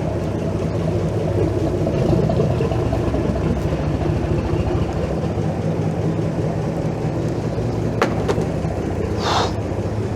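A boat's engine running steadily under way, a low drone. A sharp click comes about eight seconds in, and a brief high call follows just after.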